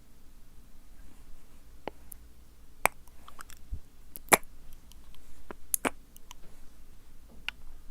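Close-up wet mouth sounds: scattered sticky clicks and smacks of lips and tongue, irregularly spaced. The loudest come a little under three seconds in and just past four seconds in.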